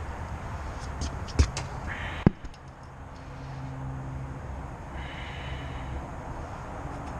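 Two sharp knocks, about a second apart, over a steady outdoor rumble.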